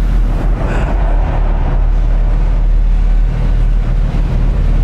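Several car engines idling together in a concrete parking garage, a steady low rumble, with a brief swell of higher noise about a second in.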